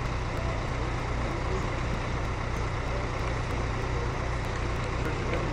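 A large engine running steadily, with a constant low hum and an even wash of outdoor noise over it.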